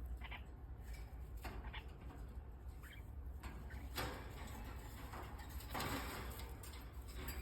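Pet cockatiel making soft, scattered chirps and calls, with a few short rustles and taps in between.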